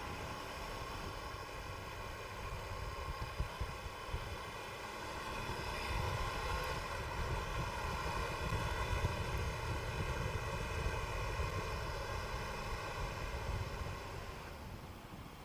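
Triumph Tiger 800 XRT's three-cylinder engine running at a steady note under way, with wind and road rumble at the microphone. It gets louder about five seconds in and eases off near the end.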